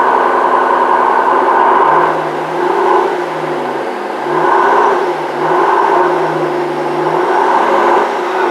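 Mercedes-Benz S65 AMG's twin-turbo V12 engine running, its revs and loudness rising and falling in several swells.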